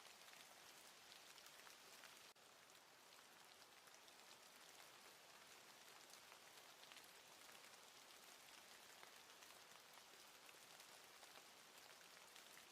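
Faint, steady patter of falling precipitation on surfaces, a fine crackling hiss, with a brief dip about two seconds in.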